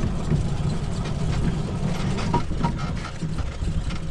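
Electric UTV driving along a dirt track: a steady low rumble of tyres and chassis, with a few short knocks and rattles about two seconds in.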